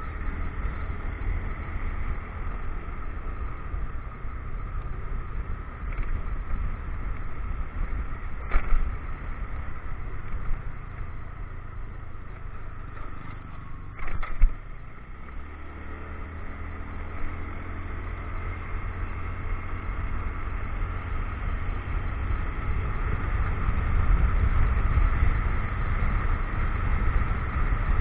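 Motorcycle riding on a rough road, engine running under wind rumble on the helmet or action-camera microphone. A couple of sharp knocks come about a third and halfway through; the sound drops briefly after the second, then the engine picks up and grows steadily louder toward the end.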